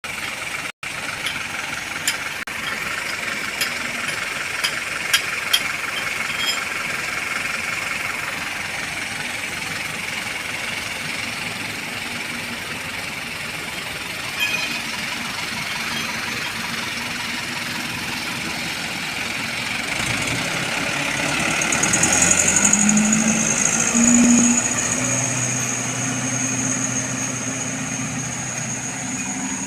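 Truck engine running at idle, with a stronger, deeper engine note coming in about two-thirds of the way through, joined by a steady high-pitched tone.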